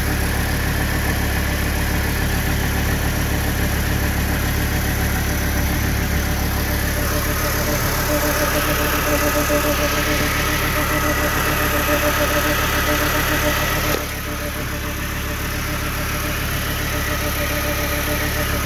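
1998 Volvo V70 R's turbocharged five-cylinder engine idling steadily. About fourteen seconds in, the sound drops abruptly in level and then slowly builds back.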